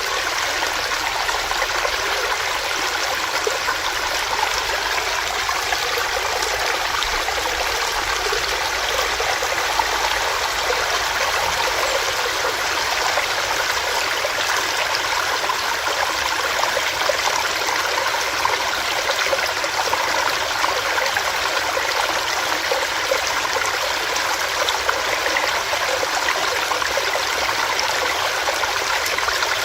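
Small rocky stream running steadily, water rushing and gurgling over stones.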